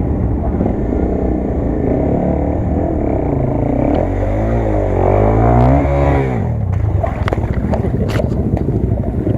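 A motor vehicle's engine running with a steady low rumble; about halfway through its pitch rises, then drops away quickly, and a few sharp clicks follow.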